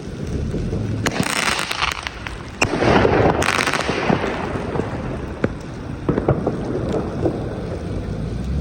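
Consumer fireworks going off: a sharp bang about a second in with crackling after it, a louder bang just before three seconds followed by about a second of dense crackle, then scattered pops.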